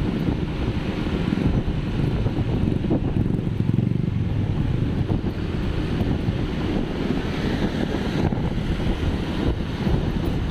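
Wind buffeting the microphone on a moving vehicle, a steady rumbling noise, with road and engine noise underneath.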